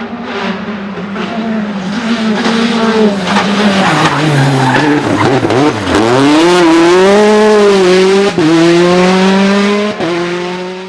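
Rally car engine at full load on a stage: the pitch falls as it slows into a corner about halfway through, then climbs again under hard acceleration, with short breaks at gear changes twice near the end. Tyres skid through the corner.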